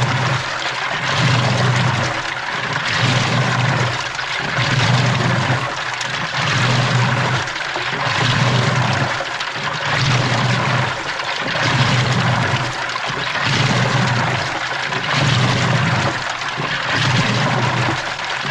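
Washing machine drum turning with water sloshing and churning inside it, heard from within the drum, with a low hum that swells and fades a little under once a second.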